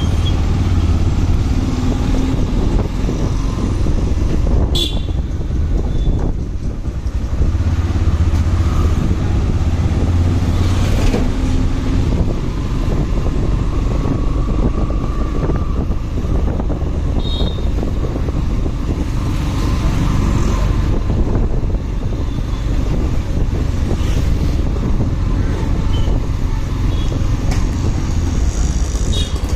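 Motorcycle engine running steadily while riding, with wind and road noise and traffic around it. A few brief high chirps cut through, about five seconds in, midway, and near the end.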